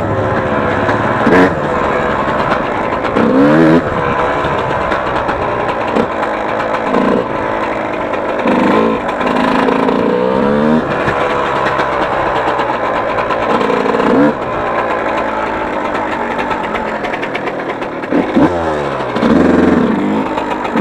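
Yamaha YZ125 two-stroke single-cylinder motocross engine being ridden, its revs climbing and dropping back again and again, about half a dozen rising runs.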